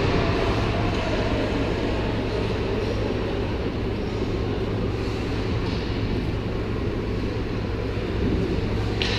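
Steady din of an ice hockey arena during play: a low rumble under an even hiss.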